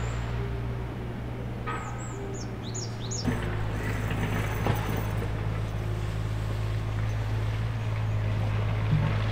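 A small bird gives a quick series of high, falling chirps in the first three seconds. Under it runs a steady low hum that grows stronger about three seconds in, with a few light knocks after that.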